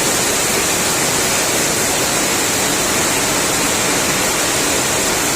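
Torrential rain pouring down in a steady, loud rush of noise.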